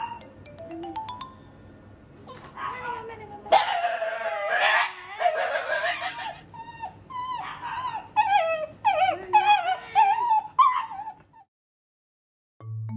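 Shiba Inu crying out in distress: long wavering whines, then a run of short, sharp yelps that rise and fall in pitch, stopping about a second and a half before the end. A short rising run of ticks comes first.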